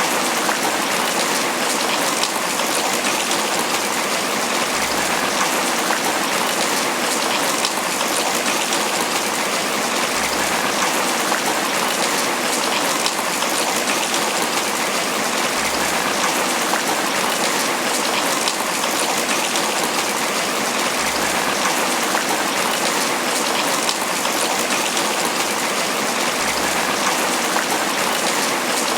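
Tropical rain falling steadily on banana leaves, a dense, even patter of drops.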